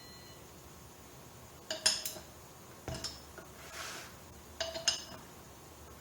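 Metal tools clinking against the bolts and metal parts of a minibike sprocket-and-hub assembly as the bolts are tightened down. There are three short bursts of one or two clinks, each ringing briefly.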